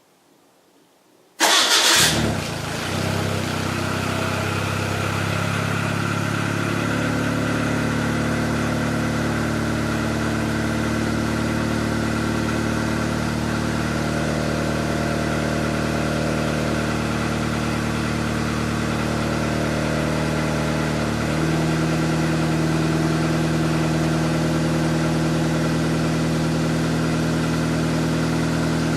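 Turbocharged Nissan Micra engine cold-started: it catches about a second and a half in with a brief loud flare, then settles into a steady idle. The idle note steps up slightly a little past two-thirds of the way through.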